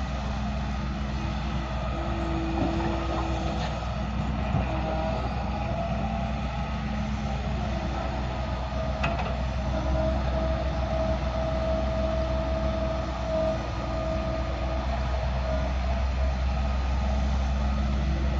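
Heavy diesel engine of earthmoving machinery running steadily, its pitch shifting a little, with a few faint knocks.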